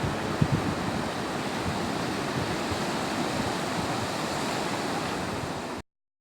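Sea surf washing steadily on a beach, with low gusts of wind on the microphone. The sound cuts off abruptly near the end.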